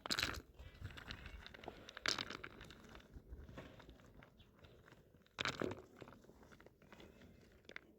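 Dry crunching and crackling, with three louder crunches: one right at the start, one about two seconds in and one a little after five seconds.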